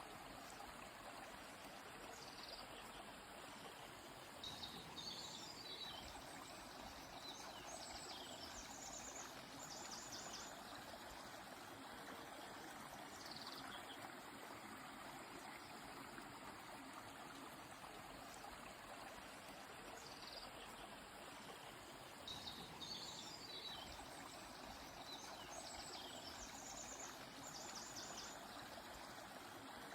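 Gently flowing river or stream, a steady faint rush of water, with small birds singing short high chirping phrases over it several times.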